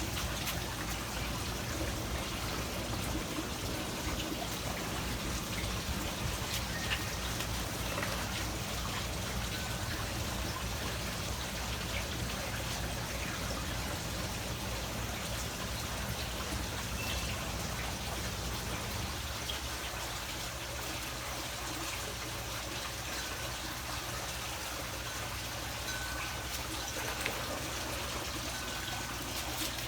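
Steady trickling, water-like noise with a low hum beneath it, a few faint short high-pitched tones and scattered small ticks.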